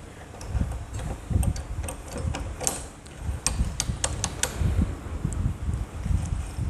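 Metal engine parts clicking and clinking against each other as a motorcycle gearbox is assembled by hand, with a quick run of sharp clicks around the middle. Irregular low rumbling runs underneath.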